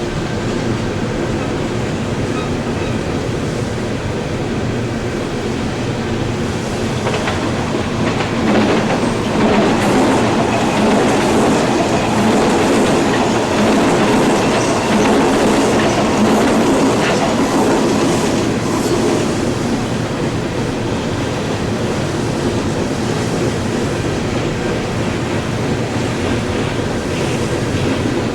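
CSX freight train rolling past, its wheels clacking over the rail joints in a steady rumble that swells about eight seconds in and eases again some ten seconds later.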